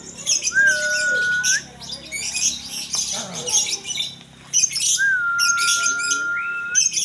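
Lovebirds chirping in rapid, high, chattering bursts that come and go. A long, steady whistled note sounds twice, the second lasting about two seconds.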